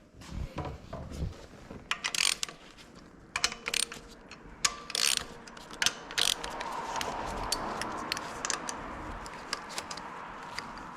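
Hand tools working on car parts: a socket ratchet clicking and metal parts clinking, followed from about six seconds in by a steadier rushing noise.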